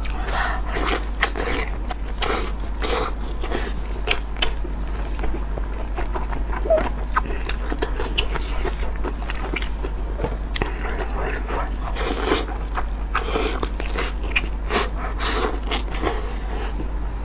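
Close-miked chewing of spicy, sauce-covered food, full of irregular mouth clicks, with a steady low hum underneath.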